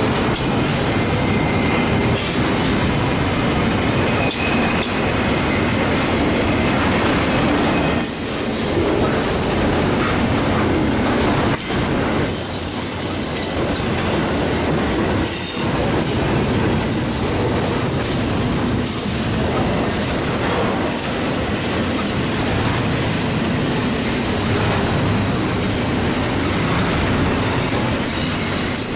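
Eastbound intermodal freight train rolling past at speed: a steady heavy rumble and rush of steel wheels on rail, with thin high wheel squeals coming and going.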